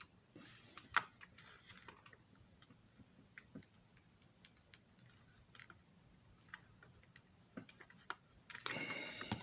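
Faint, scattered small clicks and taps of plastic model-railroad passenger car parts being handled and pressed together, with a louder click about a second in and a brief rustle near the end.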